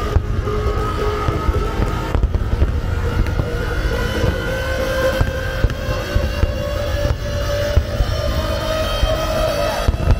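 A large fireworks display: a dense, continuous rumble and crackle of shell bursts, with several sharper bangs standing out, over music with long held notes.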